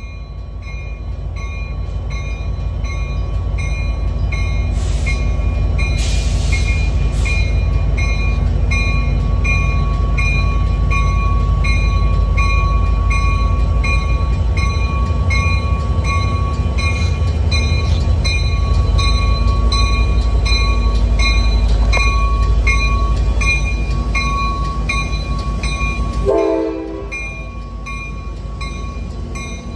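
EMD F59PHI diesel locomotive rumbling as it draws a passenger train slowly into the station, its bell ringing steadily about three times every two seconds. A thin steady squeal runs through the middle and cuts off with a short falling tone about 26 seconds in, when the rumble drops as the train stops.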